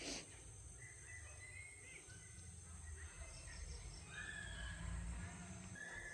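Outdoor field ambience: a steady high-pitched insect drone with several short bird chirps scattered through, over a low wind rumble on the microphone. A brief click sounds right at the start.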